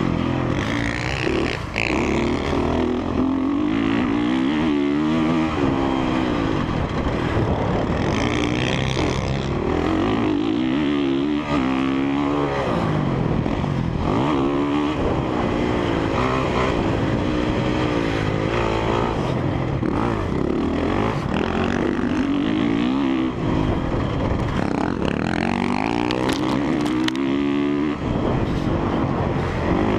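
2017 Honda CRF450R's single-cylinder four-stroke engine ridden hard around a motocross track, its pitch rising and falling over and over as the throttle is opened and chopped through the corners, jumps and ruts.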